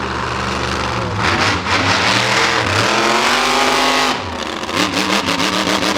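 Monster truck engine running, then revved. About a second in it climbs into a long, loud rev that drops away at about four seconds, followed by a series of quick throttle blips.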